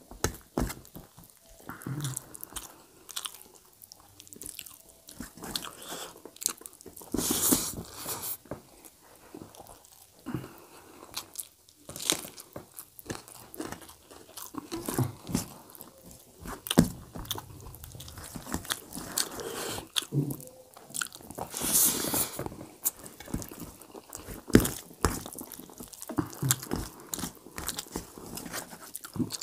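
Close-up chewing and wet mouth sounds of a man eating rice and dum aloo curry by hand, irregular smacks and clicks, with a few louder hissy bursts about a quarter of the way in and again about three quarters through.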